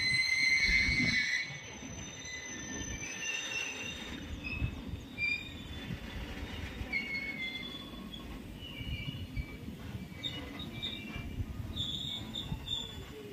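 Open freight wagons of a goods train rolling past: a steady low rumble of steel wheels on the rails with irregular knocks, and short high-pitched wheel squeals, loudest in the first second and a half and recurring through the rest.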